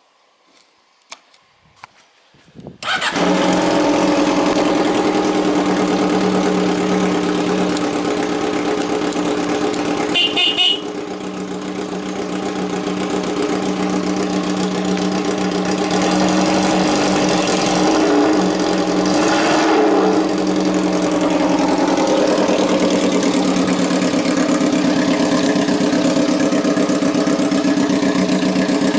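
Yamaha XJR400R's air-cooled inline-four motorcycle engine starting about three seconds in after a few faint clicks, then idling steadily. About ten seconds in a brief high-pitched tone sounds and the idle settles a little lower before slowly rising again.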